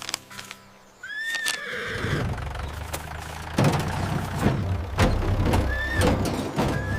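Cartoon horse neighing sound effects: short pitched calls about a second in and again near the end. A low rumble runs under them from early on, with several sharp thumps.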